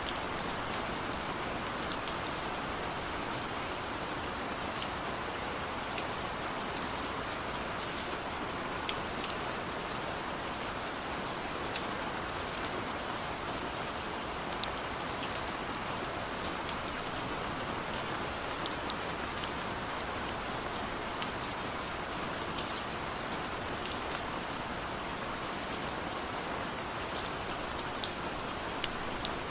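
Steady rain falling, an even hiss with many individual drops ticking sharply on a hard surface throughout. No thunder.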